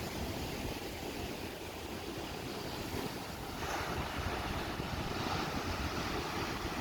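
Ocean surf breaking and washing up the beach, with wind rumbling on the microphone. The surf swells louder a little past halfway through.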